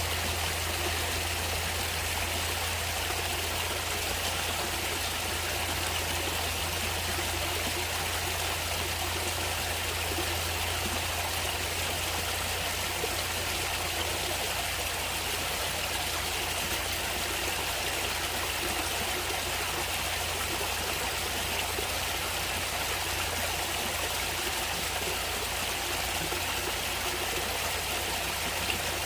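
Natural running water, flowing in a steady, unbroken rush that neither swells nor fades.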